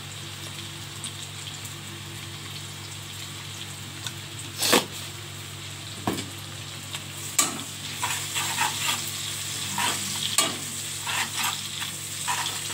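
Chicken frying in hot oil in an aluminium wok, a steady sizzle. A steel spatula scrapes and knocks against the pan a few times, then stirs it more busily in the second half.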